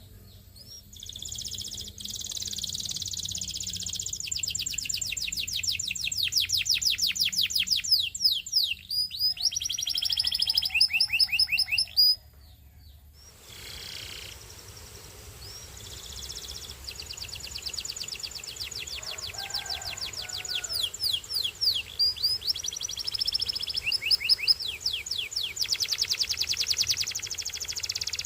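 Belgian singing canary singing: long rolling trills of rapid repeated notes. The song breaks off abruptly about halfway through, then starts again a second or two later.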